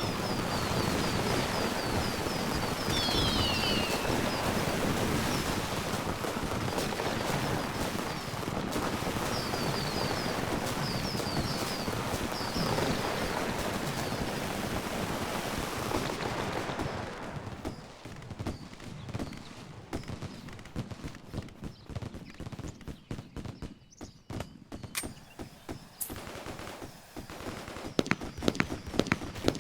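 Fireworks crackling in a dense, rapid string of pops that thins after about 17 seconds into scattered separate cracks, with a few louder bangs near the end.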